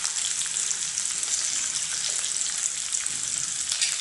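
Long green chillies frying in oil in a wok on a low flame: a steady sizzle with small crackles, and one louder pop near the end.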